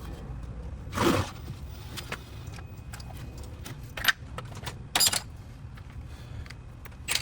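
Short clattering noises of car parts or tools being handled, four times in a few seconds, over a low steady rumble.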